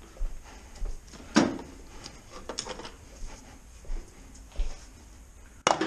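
Hand tools knocking and clicking against a stuck bolt on a gearbox end casing, in irregular sharp metallic clicks and knocks, the loudest about a second and a half in and near the end, as the bolt is worked loose.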